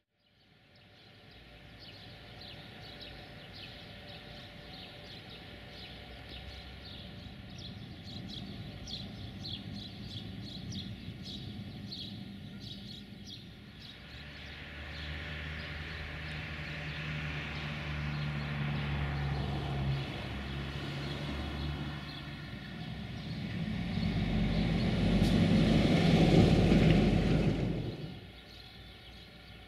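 A train passing close on the rails: the sound fades in, grows into a loud rumble with a low hum and rail noise, and cuts off suddenly a couple of seconds before the end.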